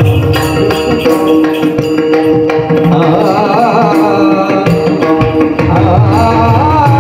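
Marathi devotional abhang music: drum strokes over steady held tones, with a singing voice entering about three seconds in on long, wavering, ornamented notes.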